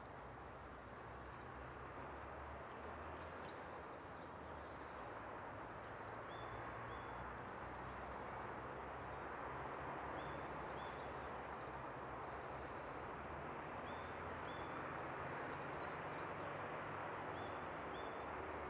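Small birds calling in short, high chirps, several a second, over a steady outdoor background hiss.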